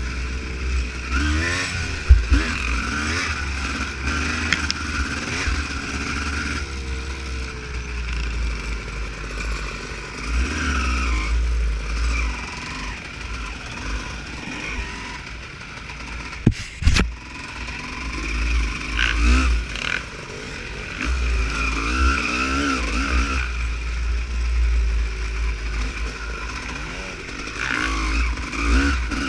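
Two-stroke Honda CR250 motocross bike being ridden off-road, its engine revving up and down repeatedly with a deep low rumble. A single sharp knock comes about 17 seconds in.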